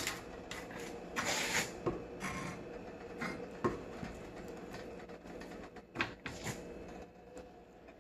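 Handling noises from food preparation: irregular light knocks and clicks, with a brief rustle about a second and a half in, over a faint steady hum.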